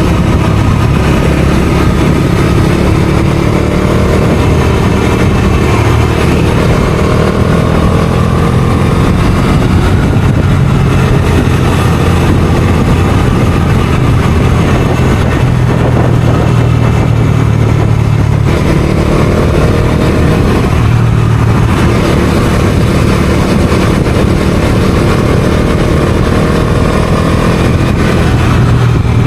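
Bajaj Dominar 250's single-cylinder engine running under way. Its pitch climbs under acceleration twice, with short breaks in between like gear changes, over a steady rush of wind noise.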